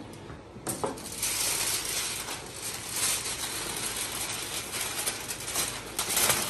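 Sheet of aluminium foil crinkling and rustling as it is pulled over a large joint of meat and pressed down around it by hand. The crackling starts about a second in and goes on unevenly.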